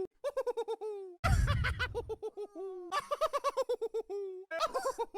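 A voice making owl-like hooting sounds in quick runs of short repeated hoots, about seven a second, each run sliding slightly down in pitch. A low rumble comes in for about a second, a little over a second in.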